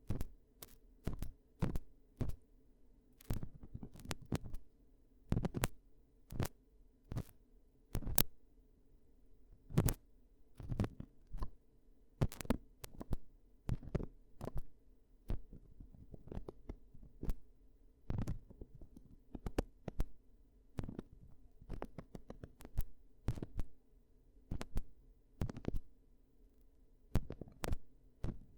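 Close-up ASMR ear-cleaning sounds: short, irregular scratching and rubbing strokes, about one to two a second, over a faint steady low hum.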